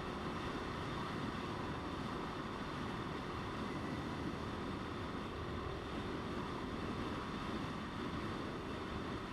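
Motorcycle running steadily at cruising speed, its engine under a constant rush of wind noise on the microphone.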